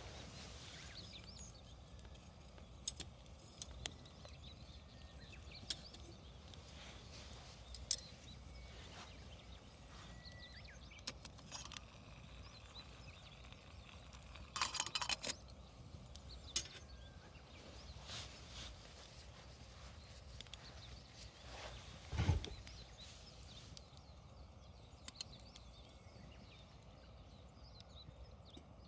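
Wood fire crackling with scattered sharp pops, a quick run of crackles about fifteen seconds in and the loudest pop about twenty-two seconds in.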